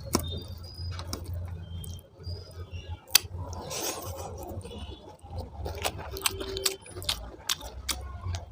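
Eating sounds of rice and dum aloo: scattered sharp clicks of food being handled on a plate, with a short noisy patch about four seconds in, over a steady low hum.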